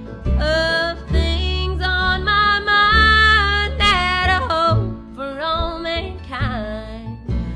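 Country band playing: acoustic guitar and bass under a lead melody of long, sliding, wavering notes.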